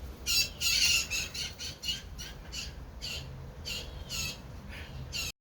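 Blue jays squawking: a rapid run of short, harsh, raspy calls, two to three a second, cutting off abruptly near the end.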